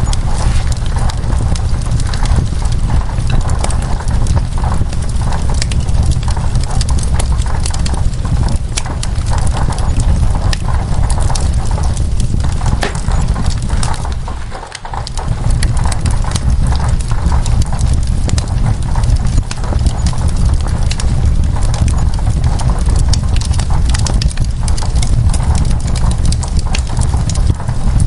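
Wood fire crackling with frequent sharp pops and snaps over a steady low rumble, mixed with the even hiss of rain on window glass. The sound briefly dips about halfway through.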